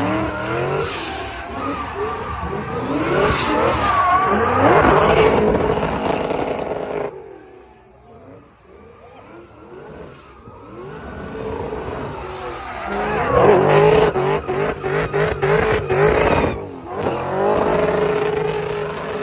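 Performance car engines revving hard at high rpm, with pitch sweeping up and down, as at a drifting or motorsport display. The sound cuts off abruptly about seven seconds in, builds back up, and changes suddenly again near the end, where one engine holds a steady pitch.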